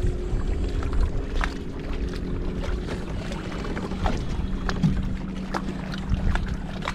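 Kayak moving across a lake: water noise against the hull with a low steady hum underneath and scattered light knocks and ticks.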